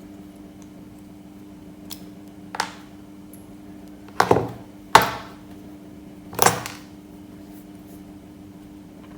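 A steady low hum with about five knocks and clatters from objects being handled, the loudest three between about four and seven seconds in.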